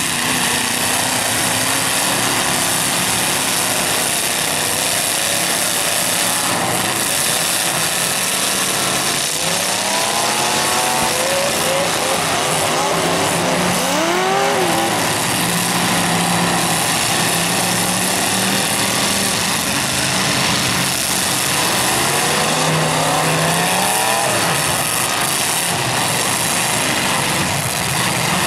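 Engines of several modified demolition-derby cars running at once over a steady din, with hard revs that rise and fall in surges every few seconds.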